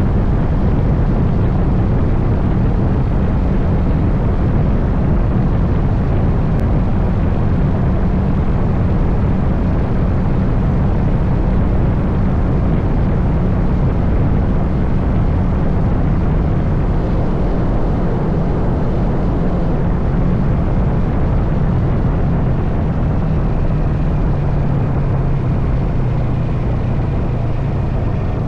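Motorcycle engine running steadily under way with heavy wind rush over the microphone; near the end the engine note drops lower.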